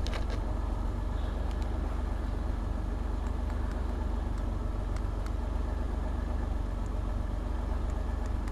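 Eagle Premier's engine idling steadily, with a fast, even low-pitched pulse.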